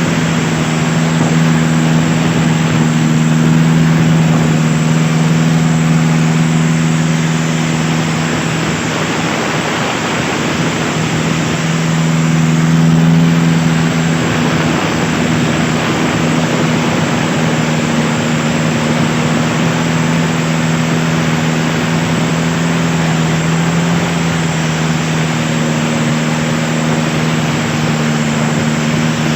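Long-tail boat's engine running steadily at speed, its hum mixed with a rush of water and wind noise; it swells slightly louder twice.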